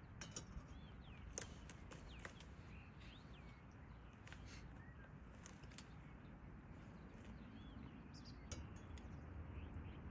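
Faint outdoor ambience: a low steady hiss with scattered light clicks and a few short chirps.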